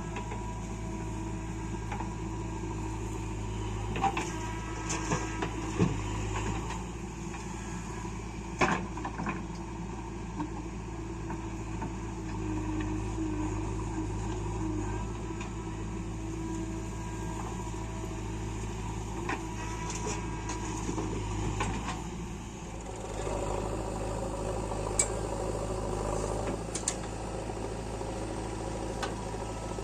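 Diesel engines of a backhoe loader and tractor running steadily, the engine note changing about three quarters of the way through. Several sharp knocks stand out, typical of a loader bucket working soil into a trolley.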